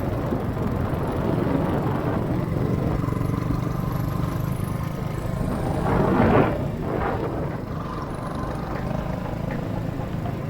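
Motorcycle engine running steadily under way, with road and wind noise; a louder swell comes about six seconds in.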